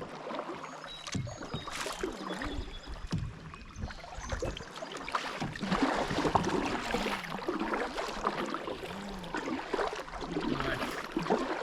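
Kayak out on a river: paddle and water splashing and gurgling against the hull, with a few sharp knocks of gear on the boat.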